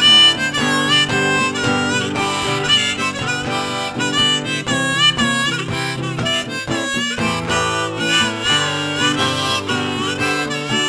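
Music: a harmonica playing a blues solo with bent notes over strummed acoustic guitar, an instrumental break between verses of a song.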